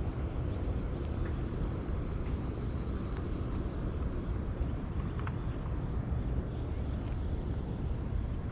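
Outdoor ambience: a steady low rumble, with short high chirps repeating every half second or so.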